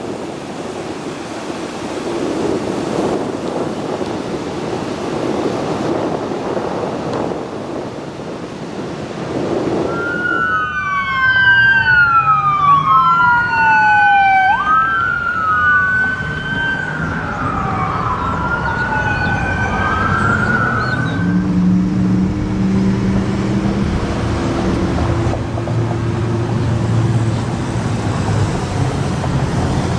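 Road and wind noise, then about ten seconds in an emergency vehicle's siren starts, sweeping down in pitch again and again for about ten seconds. It gives way to the low running of a heavy vehicle's engine.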